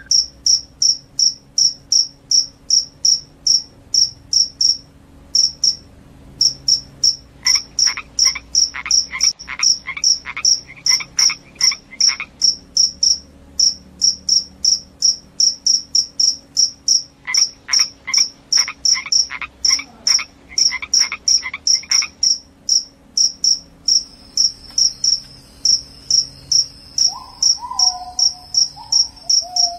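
A cricket chirping steadily, short high-pitched chirps about three a second. Twice a second, lower pulsing call joins in for about five seconds. Near the end there is a brief falling whistle-like tone.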